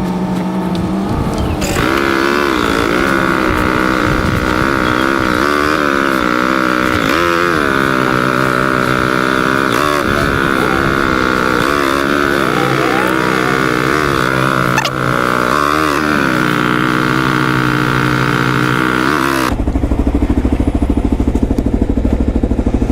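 Motorcycle engine running at idle in a drive-thru line, its pitch rising and falling slightly as the throttle is blipped. About 19 to 20 seconds in, the sound changes to a lower, rapidly pulsing idle.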